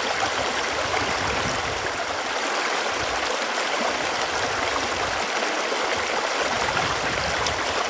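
Running water: a steady, even rushing and splashing flow.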